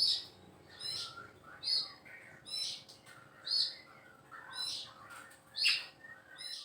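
A small songbird chirping over and over, one short, sharp, high chirp about once a second.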